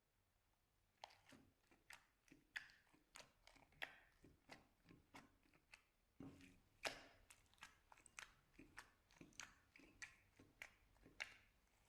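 Slime being pressed and worked by hand, giving a run of sharp sticky pops and clicks, about two or three a second, starting about a second in.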